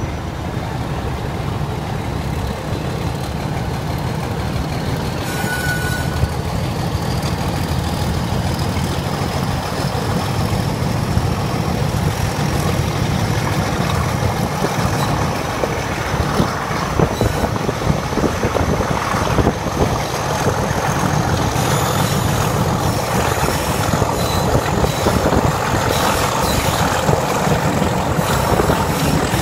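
Diesel-hauled heritage train on the move, heard from an open carriage window: a steady heavy rumble of engine and wheels on the rails, with a faint high whine rising slowly in pitch through the first twenty seconds.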